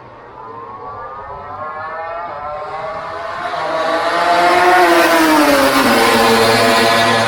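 MotoGP race motorcycle's high-revving engine coming closer and growing louder, its note climbing for the first few seconds and then falling in pitch about five seconds in, staying loud to the end.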